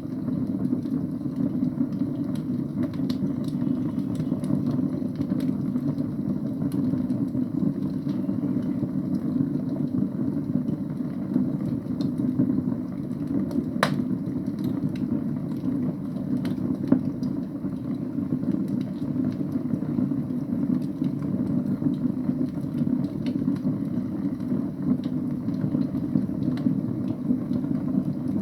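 Wood fire burning in a fireplace: a steady low rush of flame with scattered small crackles, and one sharper pop about fourteen seconds in.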